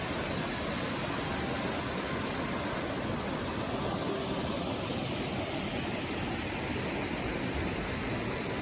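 Steady rushing noise of the Amida-ga-taki waterfall's falling water, even and unbroken.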